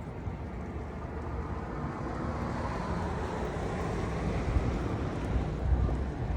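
A vehicle passing on the street, its tyre and engine noise swelling to a peak around the middle and fading toward the end, over strong wind buffeting the microphone with low, uneven rumbles.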